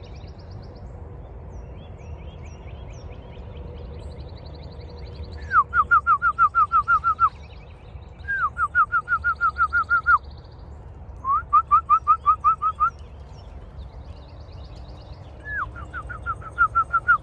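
A songbird singing four loud phrases, each a quick run of about eight short, slurred whistled notes, over fainter high trills from other birds.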